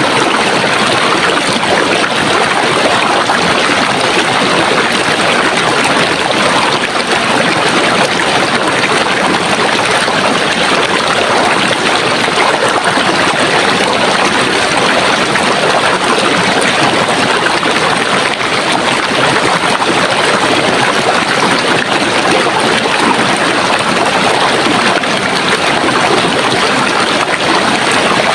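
Running water flowing steadily, a dense, even rush of stream water with no separate splashes or breaks.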